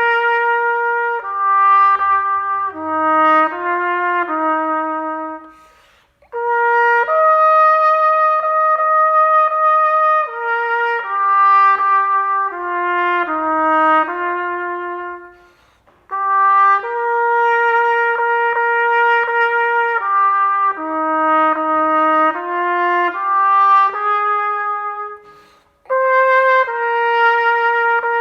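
Solo trumpet playing a slow hymn melody, one note at a time, in long held phrases. The playing breaks off three times for a breath.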